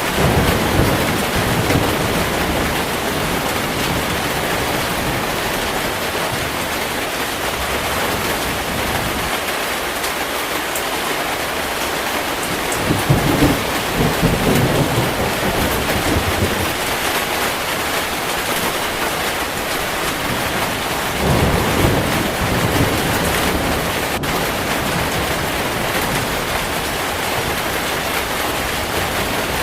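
Heavy rain falling steadily, with low rolling thunder rumbles swelling up three times: just after the start, about halfway through, and a few seconds later.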